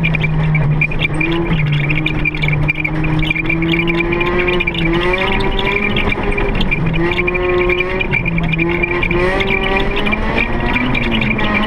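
Car engine running hard, its pitch holding and then stepping up and down every second or two as it is revved and shifted, with a steady high whine over it.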